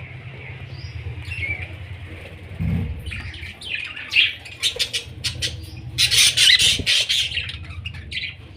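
Budgerigars squawking and chattering harshly, with a burst about three seconds in and the loudest calls between four and seven seconds, over a steady low hum.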